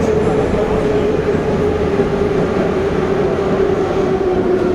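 Metro train running between stations, heard from inside the car: a steady loud rumble of wheels and running gear, with a motor whine that slowly falls in pitch.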